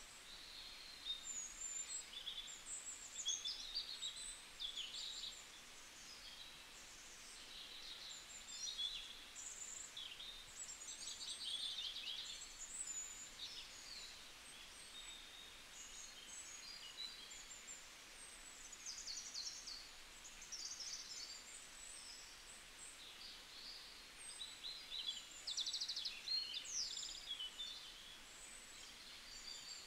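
Birds chirping and trilling: many short, high calls come and go all the way through, over a faint steady hiss.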